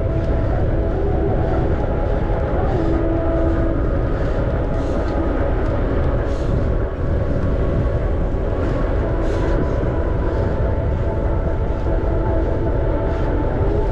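Steady wind and rolling noise while riding a bicycle, a constant low rumble with a faint hum and scattered light ticks.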